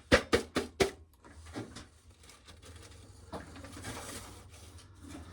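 Four quick hard knocks in the first second, then faint rustling and handling noise, as ears of corn are worked through a corn sheller.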